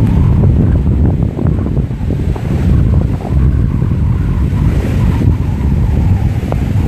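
Strong wind buffeting the microphone as a heavy, fluttering low rumble, with surf breaking on the beach beneath it.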